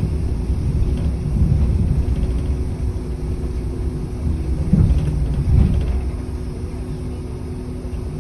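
City bus in motion heard from inside the passenger cabin: low engine and road rumble with a steady drone, easing off after about six seconds.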